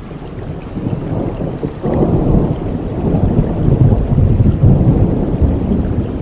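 Steady rain with a long rolling rumble of thunder that swells about two seconds in and stays loud.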